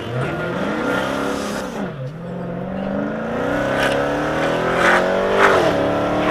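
Supercharged 6.2-litre HEMI V8 of a 2016 Dodge Charger Hellcat with a muffler delete, accelerating hard. Its pitch climbs, drops at an upshift about two seconds in, climbs again through the next gear and drops again near the end.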